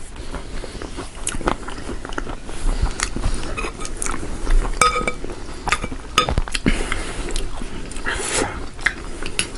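Close-miked eating sounds: irregular crunching, chewing and mouth clicks as a spicy potato nimki chaat with crunchy dalmot is eaten.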